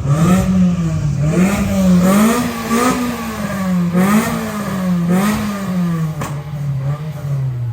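Ford Ranger Raptor's engine being revved repeatedly, its pitch rising and falling about once a second.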